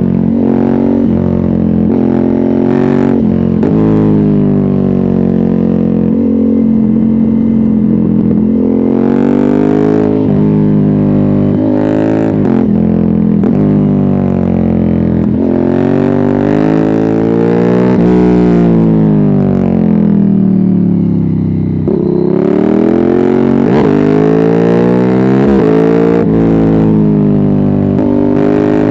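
Ducati Hypermotard 796's air-cooled L-twin, breathing through a de-catted Termignoni exhaust with its dB killer removed, pulling hard and climbing in pitch, with a sudden drop at each upshift. About two-thirds of the way through, the engine winds down in a long falling pitch as the bike slows, then revs up strongly again.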